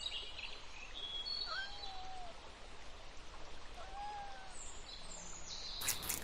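Birds calling faintly, short whistles and a few arched, drawn-out calls, over a steady outdoor background hiss. A run of sharp clicks starts near the end.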